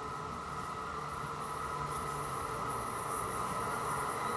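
Amtrak Northeast Regional train approaching from a distance: a steady high-pitched hum with hiss, slowly growing louder.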